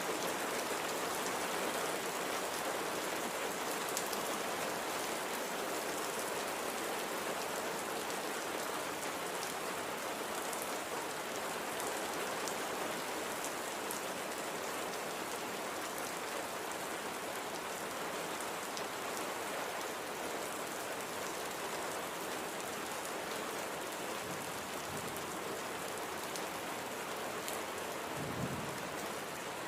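Steady light rain falling, with scattered sharper drop ticks over the even patter. A brief low rumble rises near the end.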